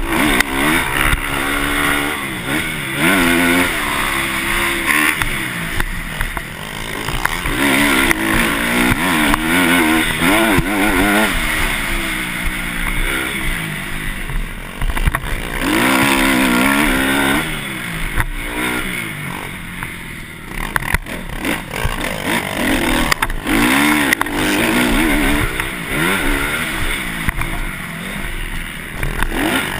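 Motocross dirt bike engine revving, its pitch climbing and dropping over and over as the throttle opens and closes through the gears.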